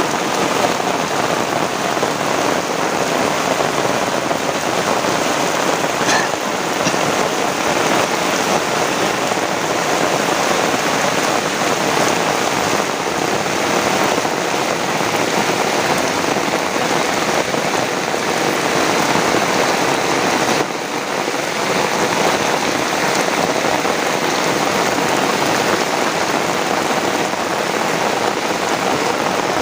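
Heavy rain falling steadily, a dense even hiss; the sound drops briefly about twenty seconds in.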